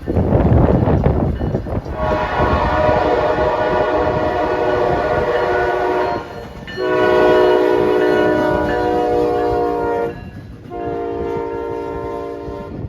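A CSX freight locomotive's air horn sounding for a grade crossing: two long blasts and a shorter one, after about two seconds of loud rumbling noise.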